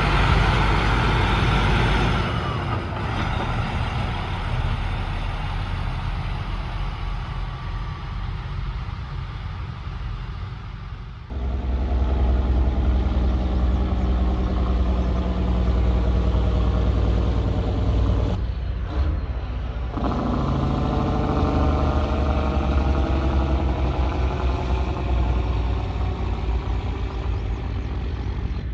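Heavy trucks' diesel engines running past in a string of short clips. The sound changes abruptly about eleven seconds in to a deep engine drone, and again after a brief break near twenty seconds, when the engine pitch glides up and down.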